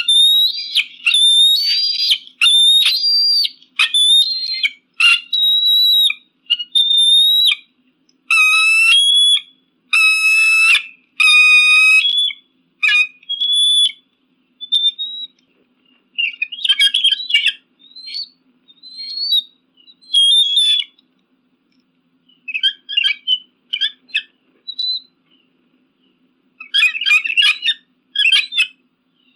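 Eagle calling: a run of high, whistled calls of about a second each, close together at first. In the second half they come sparser, as shorter broken chattering notes.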